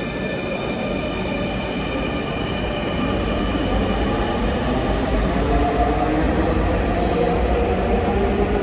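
Electric metro train moving at the platform, its traction motors giving a whine of several steady tones over a low rumble that grows louder from about three seconds in.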